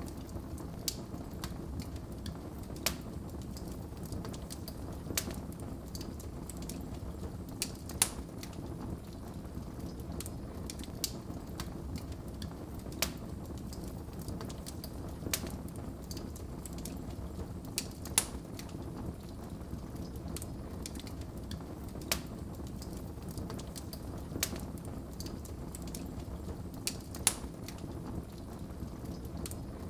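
Wood fire crackling and popping in a fireplace: a steady low rumble of flames with sharp pops every second or two, a few of them louder than the rest.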